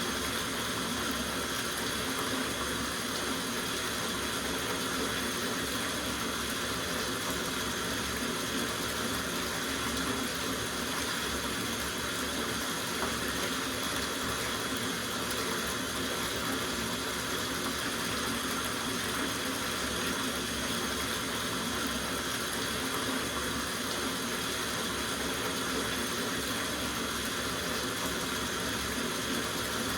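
Water running steadily from a tap into a soaking bathtub, a constant even rush of splashing water.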